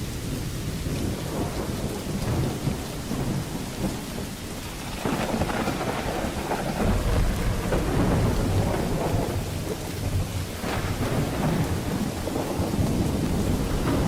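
Steady rain with rolling thunder; a long, deep peal of thunder builds about five seconds in and rumbles on to the end.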